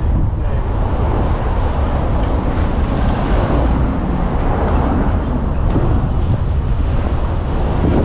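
Wind buffeting the microphone: a loud, steady low rumble with hiss above it.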